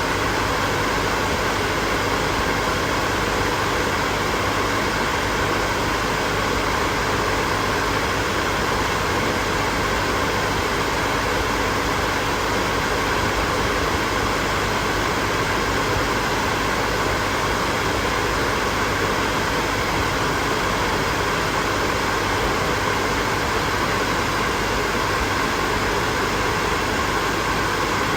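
Hair dryer running continuously: a steady, unchanging rush of blown air with a faint motor hum.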